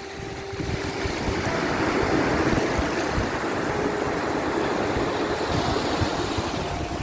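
Sea waves washing on a shore, one swell building about a second in, with faint held music notes underneath.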